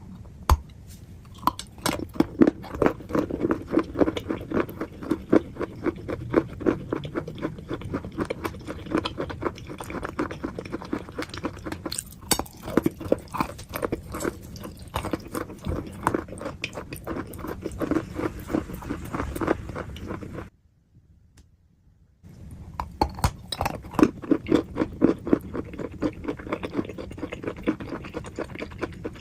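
Close-miked crunchy chewing and biting: a dense run of crisp crackles. It stops for about two seconds of silence about twenty seconds in, then resumes.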